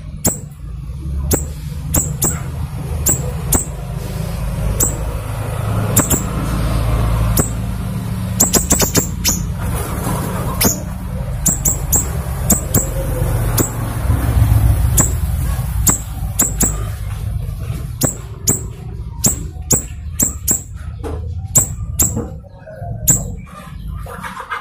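Siri-siri bird singing vigorously: a rapid, irregular run of short, sharp, high-pitched notes over a low background rumble.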